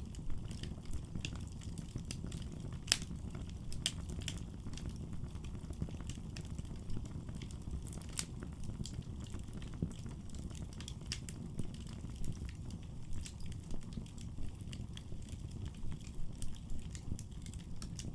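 Firewood burning in a fireplace: a steady low rumble of flame with scattered sharp crackles and pops, the loudest about three and eight seconds in.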